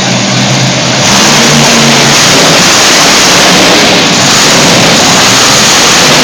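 Monster truck engine at high revs, very loud. A steady engine note in the first second gives way to a louder, dense engine noise about a second in.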